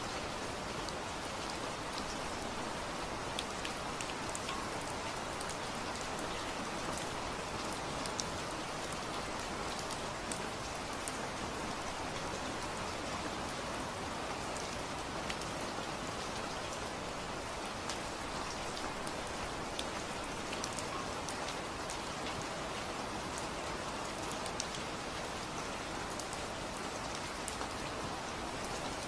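Steady rainfall, an even hiss with scattered sharp drips and drop taps on a surface throughout.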